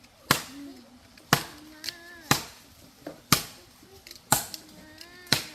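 Steady chopping: six sharp blows, evenly spaced about one a second.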